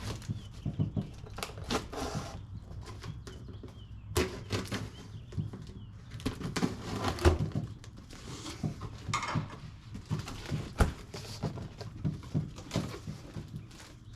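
A cardboard shipping box being opened and handled: irregular rustling and scraping of cardboard, with many short knocks and thumps.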